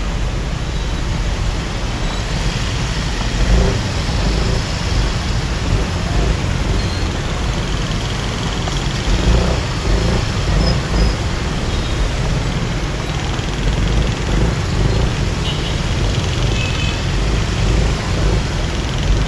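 Motorbike riding through city traffic: engine and road noise from the bike and the traffic around it, with a heavy, uneven low rumble.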